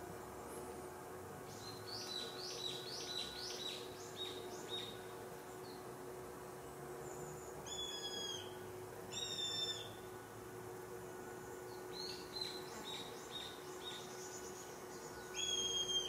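Wild birds calling: runs of quick, high, falling notes, with a few short, high whistles between them, over a faint steady hum.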